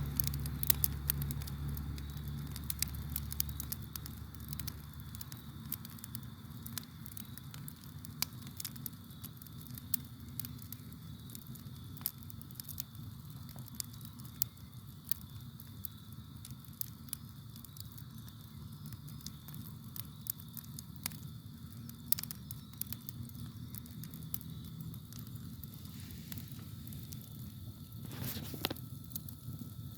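Campfire burning, wood crackling and popping at irregular moments.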